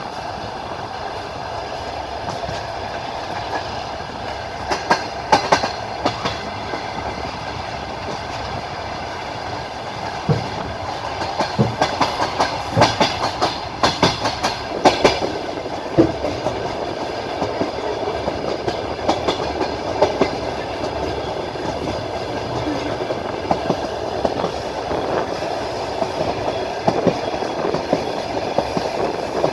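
Passenger train's wheels running over the rails: a steady rumble with groups of sharp clickety-clack beats as the wheels cross rail joints, most frequent through the middle.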